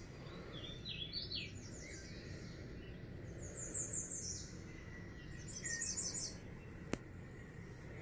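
Small birds chirping faintly: three bursts of quick, high repeated notes, about a second, four seconds and six seconds in. A single sharp click near the end.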